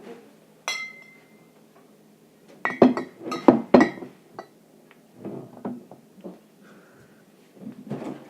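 Glass jars and bottles clinking and knocking together as they are taken out of a refrigerator. A single ringing clink comes about a second in, then a quick run of loud knocks around three to four seconds in, and softer knocks after.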